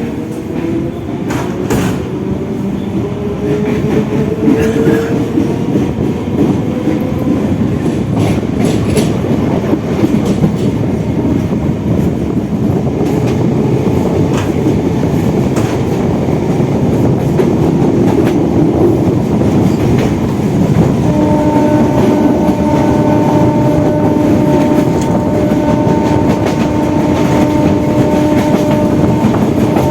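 Electric multiple-unit local train running at speed, heard on board: steady wheel-and-rail rumble with occasional clicks, and a whine rising in pitch over the first several seconds as the train picks up speed. About two-thirds through, a steady pitched tone joins in and holds to the end.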